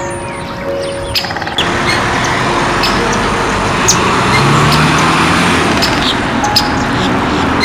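Birds chirping in short repeated calls over a dense, steady rushing background noise that grows louder about a second and a half in.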